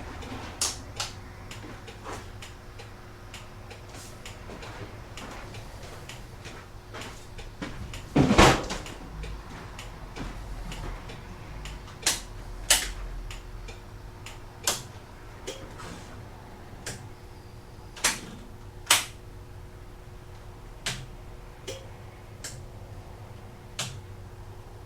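Irregular clicks and knocks of hands working on a motorcycle and its switches, with one louder thump about eight seconds in, over a faint steady hum.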